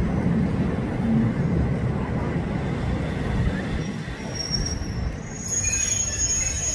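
Passenger train carriages rolling slowly over a steel truss railway bridge with a steady low rumble. From about four seconds in, thin high-pitched squealing comes from the wheels as the train brakes to a stop.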